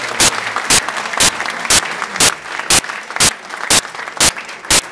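Audience applause at the end of a speech, with sharp, regular beats about twice a second running through it. The general clapping dies down near the end while the beat goes on.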